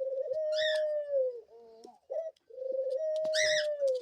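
A dove cooing: two long, steady coos, each about a second and a half, with short rising notes in between. A brief, higher-pitched sound comes over each long coo.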